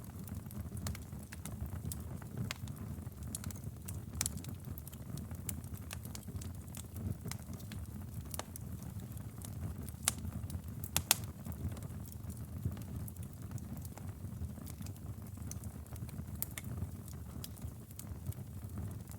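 Wood fire burning in a fireplace: a steady low rumble of flames with scattered sharp crackles and pops, the loudest pops a little past the middle.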